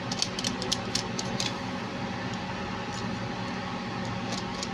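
A quick run of light clicks and taps in the first second and a half, and two more near the end, over a steady low hum.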